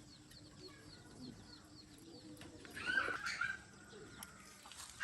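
Birds calling: a run of quick high chirps, a low steady call underneath, and a louder call about three seconds in.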